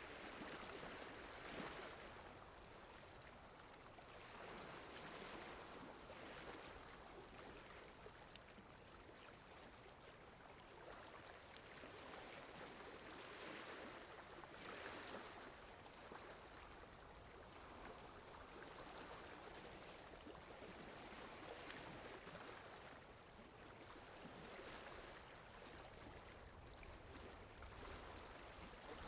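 Steady rain falling, a soft even hiss that swells and eases every few seconds.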